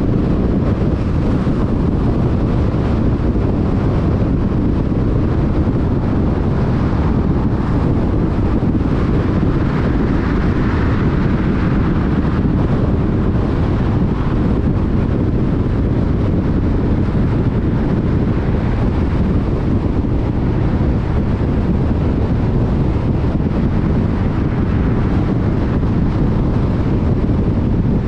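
Steady road noise of a car travelling at freeway speed: deep tyre rumble on the road surface mixed with wind noise, with no breaks.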